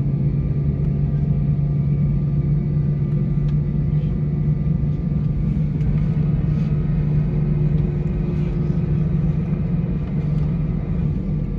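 Airliner cabin noise from an Airbus A320-232 with IAE V2500 engines running: a steady low drone with rumble underneath and an even pitch, plus a few faint ticks and rattles.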